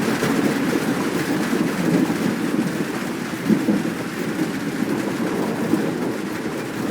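Steady heavy rain with a low rumble of thunder underneath.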